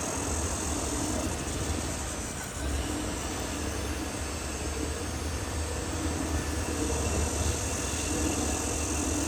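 Caterpillar D6R XL crawler bulldozer running steadily, its diesel engine and steel tracks working together.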